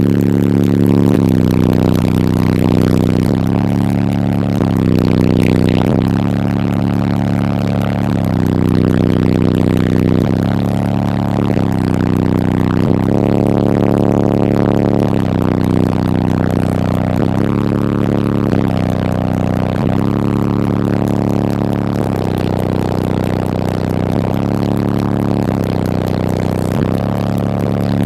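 Loud, bass-heavy music on a truck's car-audio system, with deep bass notes held and changing pitch every second or two.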